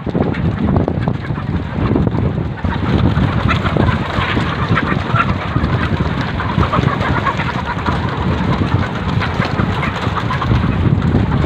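A flock of laying hens calling together, with many short overlapping clucks and squawks that thicken about two and a half seconds in, over a steady low rumble.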